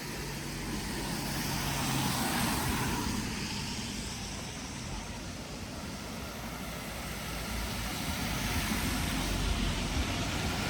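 Vehicles passing on a wet street, with tyre hiss and engine rumble. One swells and fades about two to three seconds in, and another approaches near the end.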